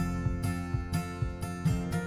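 Background music with acoustic guitar plucking and strumming in a steady rhythm.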